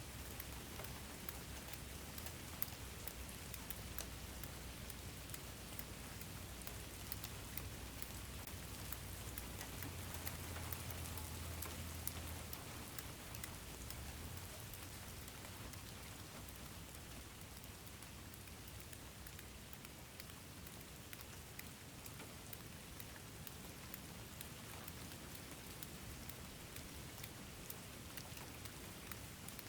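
Steady rain falling, with a dense patter of small drop ticks over an even hiss. A faint low rumble sits underneath and swells briefly about ten seconds in.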